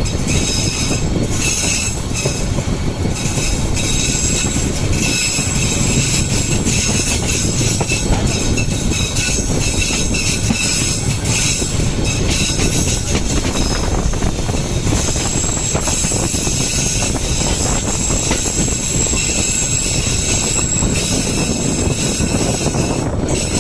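Rangpur Express passenger train running through a curve: a steady rumble of the coaches with high-pitched wheel squeal that comes and goes over it, strongest in the second half.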